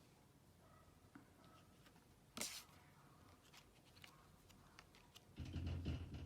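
Quiet room tone with a brief rustle about two and a half seconds in. Near the end comes a loud low rumble, typical of wind buffeting.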